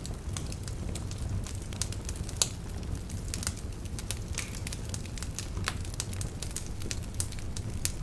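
Wood fire burning in a fireplace: a steady low rumble of the flames with irregular sharp crackles and pops from the logs, one louder pop about two and a half seconds in.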